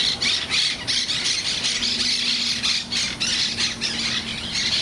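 A flock of wild green parrots screeching: harsh squawks overlapping in a fast, continuous chatter.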